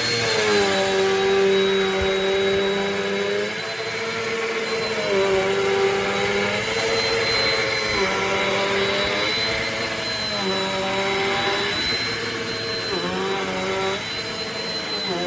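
Bagless upright vacuum cleaner running steadily, with a high whine over its motor hum. The hum shifts down and back up in pitch several times.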